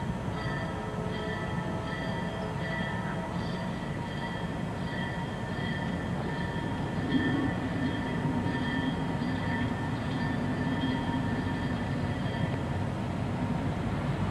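Two diesel locomotives running light with no cars: a steady engine rumble that swells about halfway through, over a high metallic ringing that pulses at a regular beat and stops shortly before the end.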